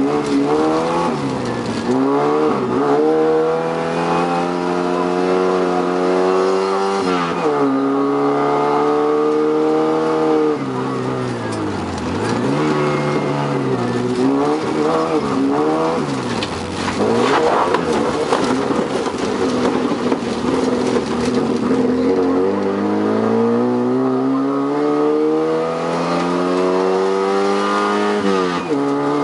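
Rally car's engine heard from on board, driven hard on a dirt road. The revs climb and then drop sharply several times as the driver lifts, brakes and changes gear, over steady tyre and gravel noise.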